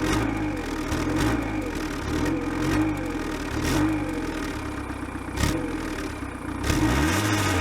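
Diesel car engine heard right at the tailpipe, idling with repeated short throttle blips about once a second and a longer rev near the end, exhaust gas blowing onto the microphone. A single sharp click about five and a half seconds in.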